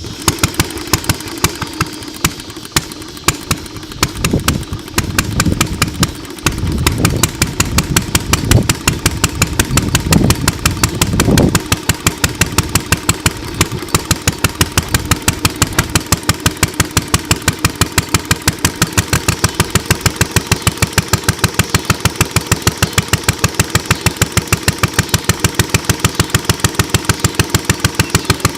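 Ideal Model V upright engine running just after its pull start, fuelled through a marine outboard carburetor set rich and a notch fast for starting. For about the first twelve seconds it fires unevenly with louder surges, then it settles into a steady, even firing rhythm.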